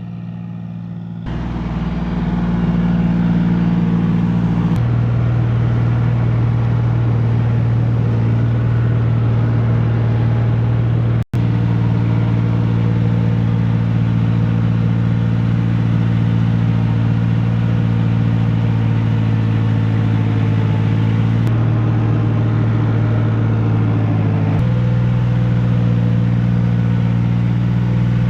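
John Deere 5055E tractor's diesel engine running steadily under load. Its note shifts a couple of times, and the sound drops out for an instant about eleven seconds in.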